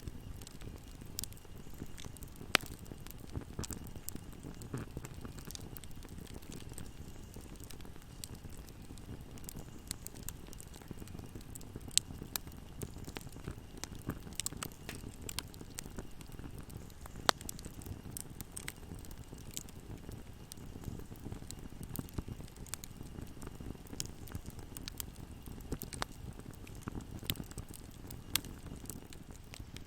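Wood fire burning in a fireplace: a steady low rumble of flames with frequent small crackles and occasional sharp pops, the loudest about 2.5, 12 and 17 seconds in.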